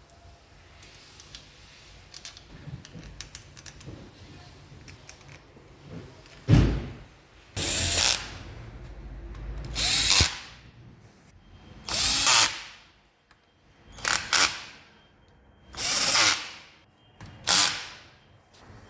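A handheld power tool run in short bursts, about six of them roughly two seconds apart, starting about a third of the way in. Before that there are faint clicks of handling.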